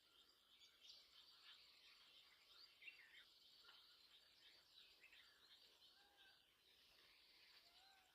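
Faint chorus of small songbirds chirping and twittering, many short overlapping calls with quick rising and falling notes.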